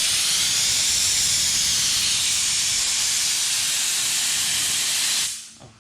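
A loud, steady hiss, strongest in the high range, that cuts off suddenly about five seconds in.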